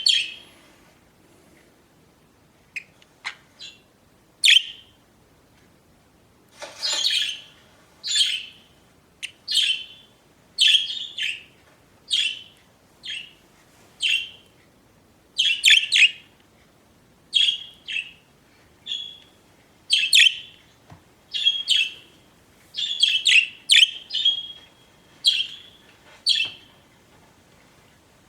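Pet budgerigars chirping: a string of short, high chirps, roughly one a second, some in quick pairs, with short pauses between them.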